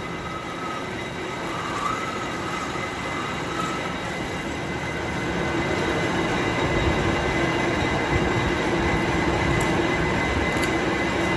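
A workshop machine running steadily: a dense mechanical noise with thin, steady high whines over it, growing a little louder about halfway through.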